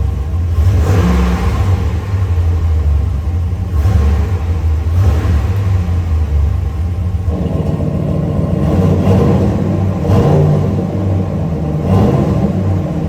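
Dodge Ram 1500's 5.7-litre V8 exhaust, fitted with a Guerrilla Bypass cut-out valve, rumbling and revved in repeated short blips. A little past halfway the note changes suddenly, with less of the deep bass and more of the middle.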